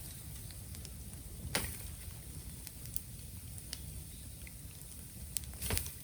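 Bamboo bonfire crackling: scattered small ticks over a steady low rumble and hiss, with two louder sharp pops, one about a second and a half in and one near the end.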